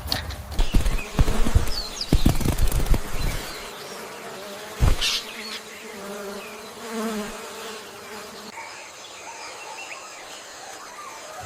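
Several dull thumps in the first few seconds and a sharp knock about five seconds in, then a flying insect buzzing with a wavering pitch.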